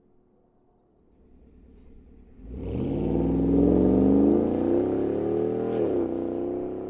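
Cadillac Escalade 6.2-litre V8 through an AWE 0FG stainless catback exhaust, coming on hard about two and a half seconds in and accelerating with a steadily rising note. Near the end the pitch drops sharply at a gear change, then it starts to climb again.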